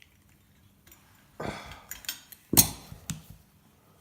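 Metal parts of an old light fitting clanking as it is taken apart by hand: three sharp metallic knocks, the loudest about two and a half seconds in.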